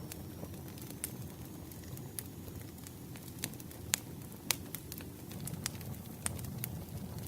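Campfire burning: a steady low rumble of flames with irregular sharp crackles and pops of burning wood, two of them louder about four seconds in.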